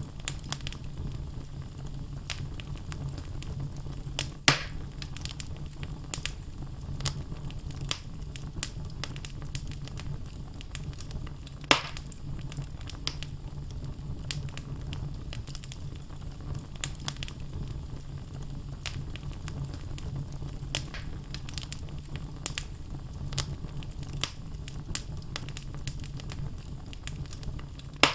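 Wood fire burning in a fireplace: logs crackling with scattered small pops over a steady low rumble of the flames, with two louder pops about four and a half seconds and twelve seconds in.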